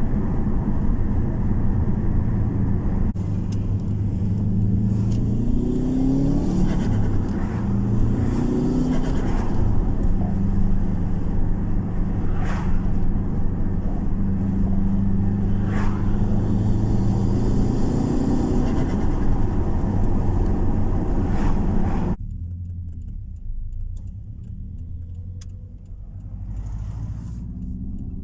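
Subaru Impreza STI's turbocharged EJ207 flat-four revving and pulling through the gears, with a few short bursts of VF35 turbo flutter on lift-off because it runs without a blow-off valve. About three quarters of the way through, the sound drops suddenly to a quieter, duller engine note.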